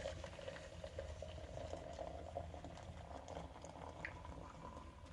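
A pot of food simmering on a stove: faint, steady bubbling with small crackles.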